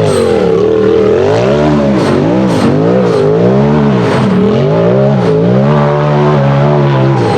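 Race UTV buggy engine revving hard, its pitch rising and falling over and over as the throttle is worked on and off, steadier for a moment near the end.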